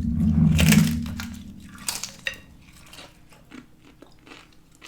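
Close-miked bite into a crisp fried tortilla, a tostada or chip, with a low thump as it starts and a loud crunch. Chewing follows, with crunches about two to three times a second that fade away.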